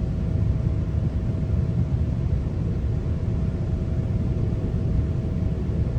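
Steady low rumble of a GO Transit passenger coach running between stations, heard from inside the coach, with a faint steady hum over it.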